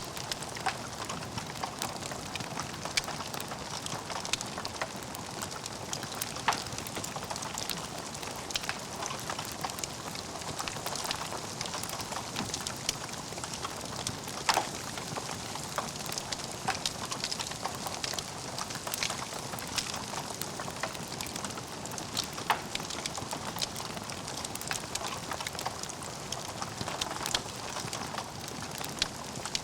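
Burning logs in a fireplace: a steady hiss of flame with dense crackling and scattered sharper pops, the loudest about 14 and 22 seconds in.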